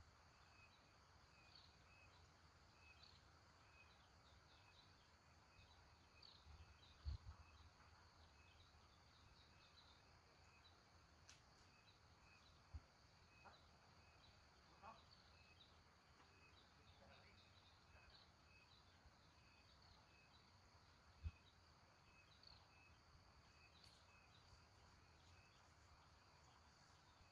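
Faint outdoor ambience: small high chirps repeating steadily about twice a second, with a few soft low thumps about seven seconds in, near the middle and about two-thirds of the way through.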